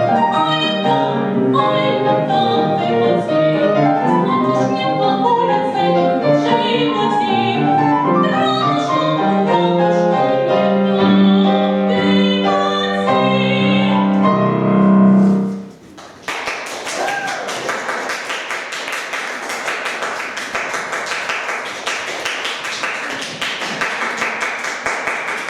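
A classical vocal piece sung with piano accompaniment reaches its end on a long held note. It cuts off about 16 seconds in and is followed by audience applause.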